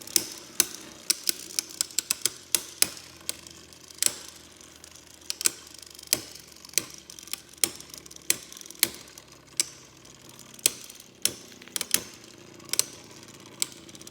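Two Beyblade Burst tops spinning in a plastic stadium: irregular sharp clacks, one to three a second, as the tops strike each other and the stadium, over a faint steady whirr.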